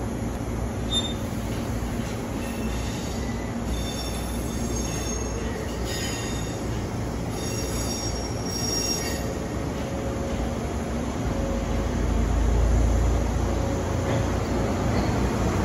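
Echigo Tokimeki Railway 413 series and 455 series electric train rolling slowly into a station platform. High squeals sound as it slows, from about three to nine seconds in. The low rumble grows louder after about twelve seconds as the cars pass close by.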